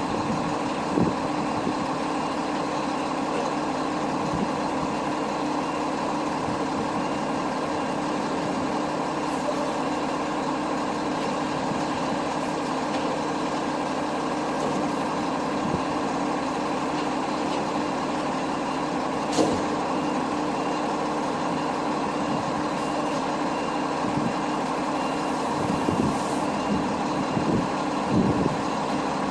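Heavy tow truck's engine running steadily with an even drone. There is one sharp click about two-thirds of the way through and a few knocks near the end.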